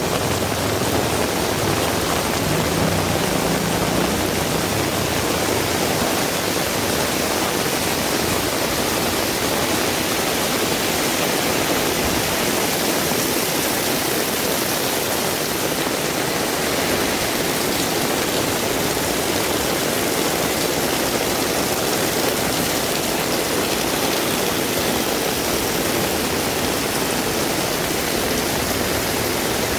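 Heavy rain falling steadily, an even, dense hiss that does not let up. A low rumble dies away in the first few seconds.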